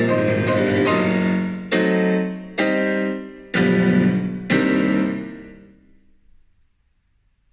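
Background piano music closing on four struck chords about a second apart, each ringing out, the last one fading away to near silence.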